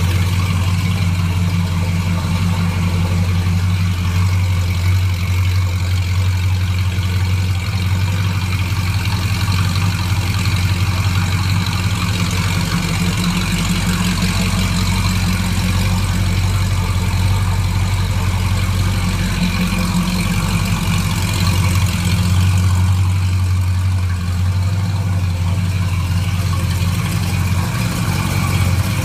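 Ford 302 small-block V8 idling steadily through open lakester exhaust pipes, the engine still cold after a cold start.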